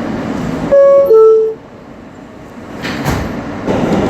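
R160 subway car's two-tone door chime, a higher tone then a lower one about a second in, signalling the doors are closing. Near three seconds a short burst of noise comes as the doors shut, and then the train's running noise rises as it starts to pull out.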